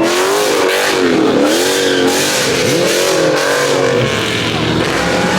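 Car engine revving over and over, its pitch swinging up and down several times, over loud, steady noise.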